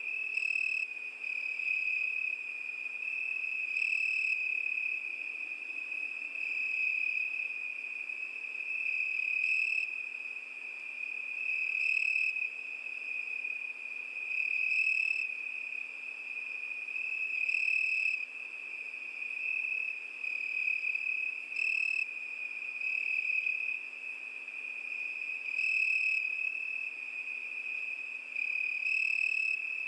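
Cricket song: a steady, high, continuous trill that swells louder every few seconds.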